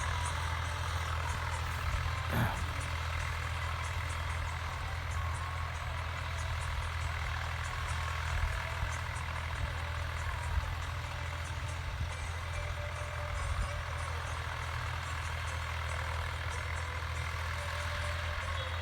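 Heavy vehicle's engine running steadily with a constant low hum.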